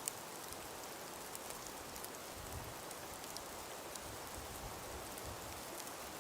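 A calm breeze through a frosted, icy forest: a steady, even hiss sprinkled with small scattered ticks, a sharper tick right at the start. Low gusts of wind rumble on the microphone through the middle.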